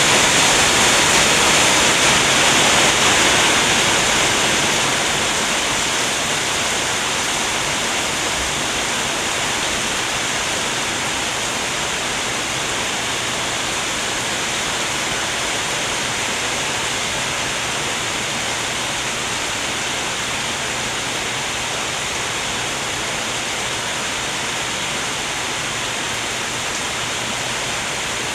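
Heavy rain pouring as a steady, loud rushing hiss. It is slightly louder for the first few seconds, then settles.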